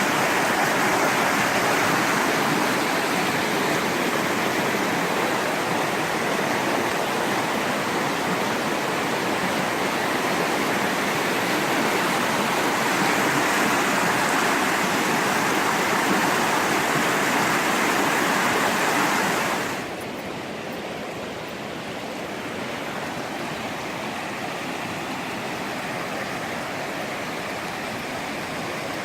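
Water rushing over a waterfall, a steady hiss. About twenty seconds in it cuts suddenly to a quieter, duller rush.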